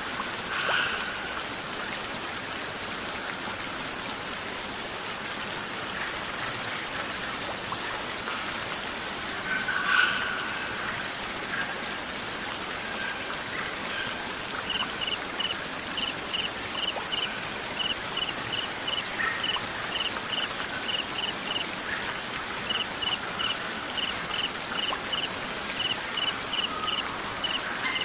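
A steady stream-like trickle of water with short songbird calls now and then, the loudest about a third of the way in. From about halfway a cricket starts chirping steadily, about two to three chirps a second.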